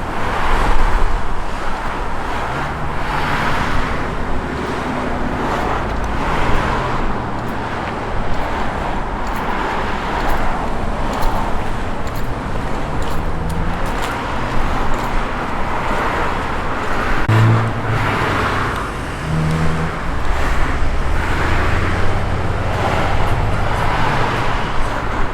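Performance cars driving slowly past one after another, their engines running at low revs over steady traffic noise, with a deeper engine note coming up in the last few seconds.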